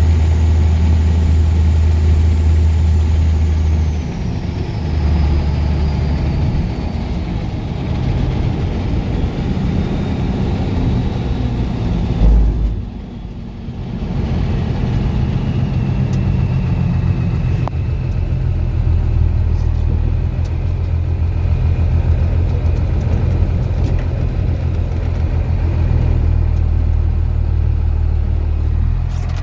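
12-valve Cummins turbo diesel inline-six running steadily with a deep drone. A faint high whistle falls away over the first several seconds, and the engine note drops at about four seconds. About twelve seconds in there is a thump and a short dip in the sound before the steady running resumes.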